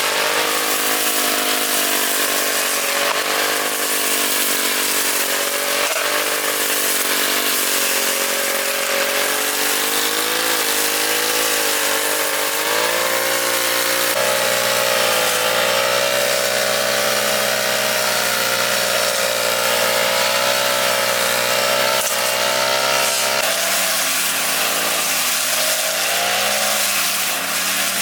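Small engine of a lawn mower running steadily under load while cutting grass, its pitch rising and dipping as it works, with a higher pitch from about halfway through.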